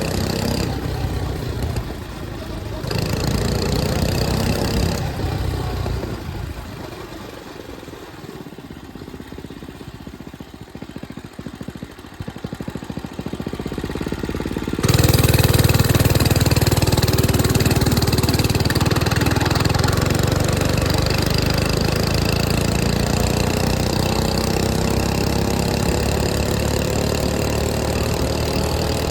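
105cc mini bike engine running: it drops to a quieter, lower level for several seconds, then goes suddenly much louder about halfway in and stays loud, its pitch slowly rising.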